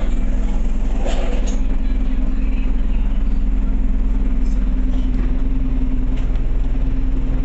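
Scania OmniCity bus's diesel engine running as the bus drives, heard from inside the cabin: a steady low drone with a constant hum.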